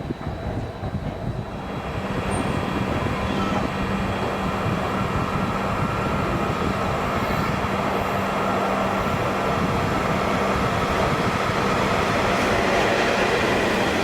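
A train running on the track: a steady rumble with a steady hum over it. It gets a little louder about two seconds in and then holds.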